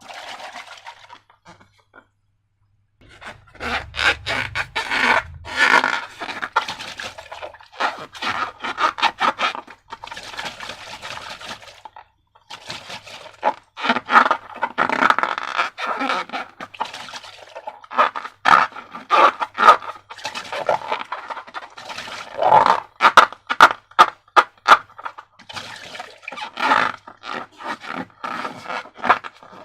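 Slime being handled and mixed by hand: sticky squelching and crackling with many sharp little clicks, in uneven bursts.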